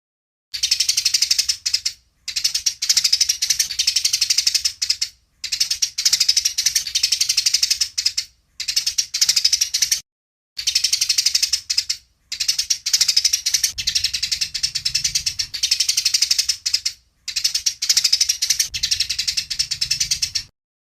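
Eurasian tree sparrows chattering in fast, harsh chirps, the agitated calls of sparrows fighting. They come in seven runs of one to five seconds each, with brief pauses between.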